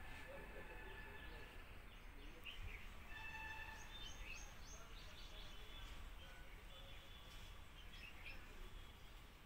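Faint outdoor ambience: birds chirping, with a run of quick high chirps in the middle, over a low steady rumble.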